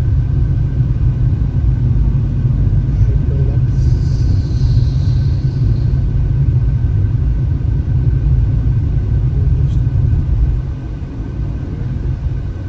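Steady low rumble of a car driving uphill on a mountain road, engine and tyre noise, easing slightly near the end.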